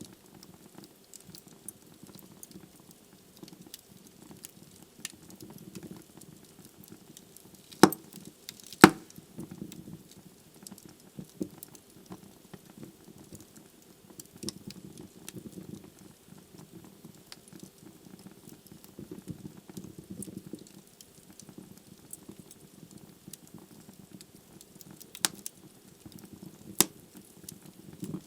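Wood logs burning in a fireplace: a steady low rush of flames with scattered small crackles, and a few loud sharp pops, two about eight and nine seconds in and two more near the end.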